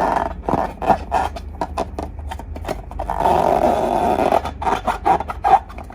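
Slime being squeezed and worked by hand: a quick run of sticky pops and clicks, with a longer squelching stretch about three seconds in.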